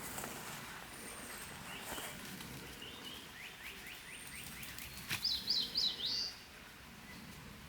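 Wild songbirds singing in woodland: a quick run of short chirping notes, then a louder phrase of about five sharp notes around the middle, with faint thin high whistles from another bird, over a steady outdoor hiss.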